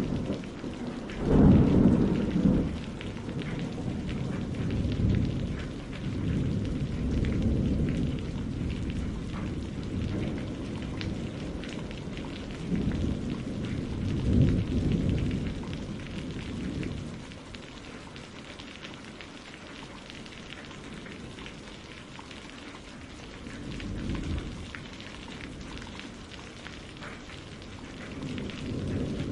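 Steady rain with deep rumbles that swell and fade several times, the loudest about a second in and others around fourteen and twenty-four seconds in.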